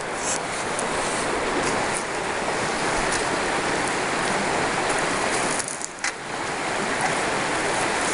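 Water rushing steadily, the sound of a creek or the flow through a sluice box, with a short dip about six seconds in.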